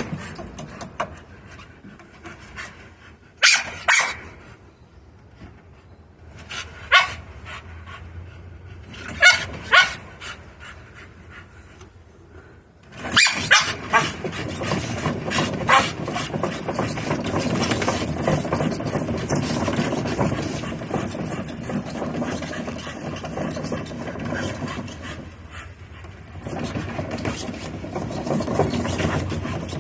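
American Pit Bull Terrier barking in short, separate barks through the first half, then a continuous rough noise that takes over from about halfway.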